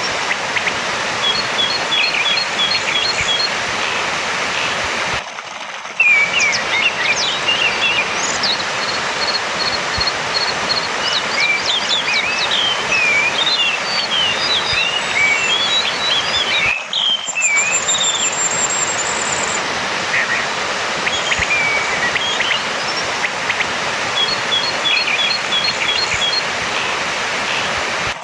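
Orange-headed thrush (anis merah) singing varied short chirps, whistles and quick runs of repeated notes, over a steady background hiss. The sound drops out briefly twice, about five seconds in and again around seventeen seconds.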